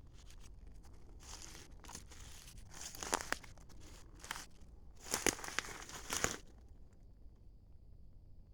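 Rustling and crunching in undergrowth, in several irregular bursts with a few sharp snaps, loudest around three seconds in and again from about five to six seconds in.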